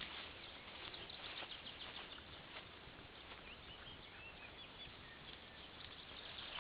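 Faint open-field ambience: a few short, distant bird chirps and scattered light ticks over a soft steady hiss.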